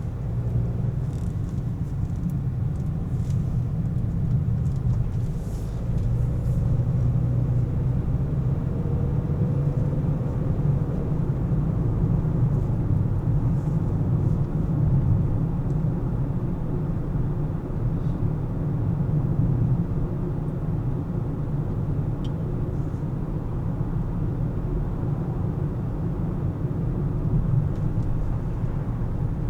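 A car driving in city traffic: a steady low rumble of engine and road noise.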